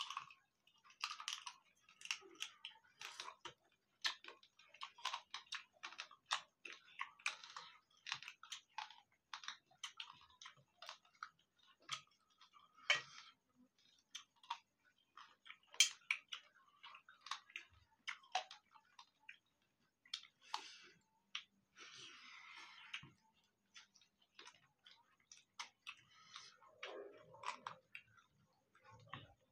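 Close chewing and lip-smacking as rice and chicken curry are eaten by hand, many small irregular wet clicks.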